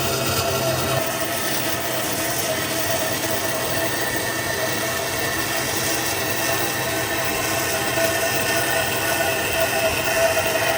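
Steady mechanical noise with a constant mid-pitched tone running through it.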